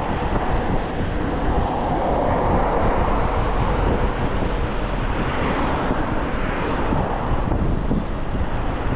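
Wind rushing over the microphone with tyre and road rumble from an e-bike riding along a bumpy road, swelling in the middle.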